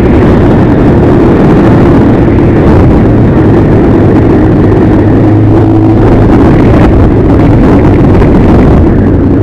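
Loud, steady engine and road noise of a moving vehicle, with a constant low hum and no change in pace.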